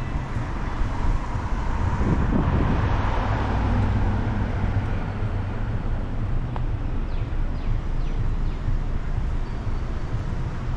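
Motor vehicle noise: a car's steady low engine and road rumble, a little louder about two to four seconds in.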